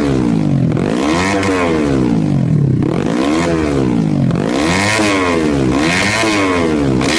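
Yamaha Jupiter grasstrack moped's bored-up 130 cc four-stroke engine revved repeatedly, its pitch climbing and dropping back about five times.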